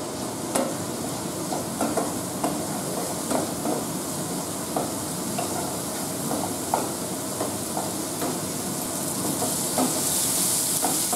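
Wooden spatula stirring chopped tomato and slit green chillies through a spice paste frying in oil in a nonstick kadai: steady sizzling with scattered light scrapes and taps of the spatula on the pan. The sizzle grows louder near the end.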